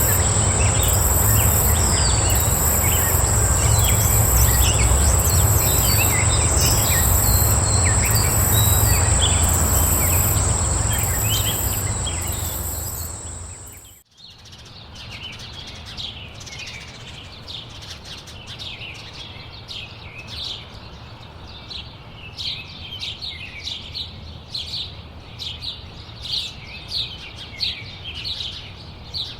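Two outdoor recordings joined by a fade. First, a steady high-pitched insect drone with a pulsing hiss above it, over a low rumble and scattered bird chirps, fading out about halfway. Then songbirds chirping, short repeated calls coming more often toward the end.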